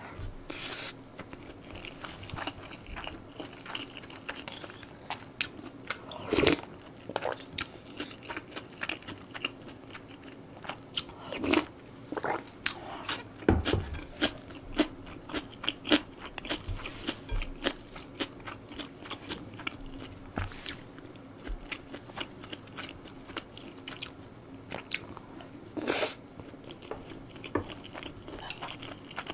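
Close-miked chewing of a mouthful of butter soy sauce egg rice: a steady run of wet mouth clicks and smacks, with a few louder knocks.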